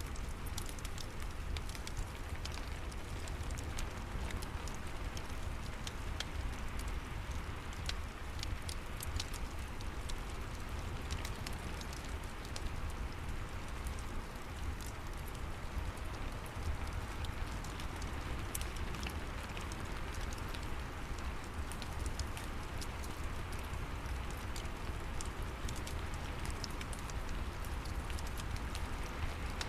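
Steady rain with a low rumble, mixed with the crackle of a fireplace: many small sharp pops and snaps scattered throughout.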